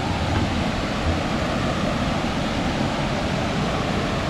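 Cascading waterfalls of the Big Sioux River: steady rushing of falling water.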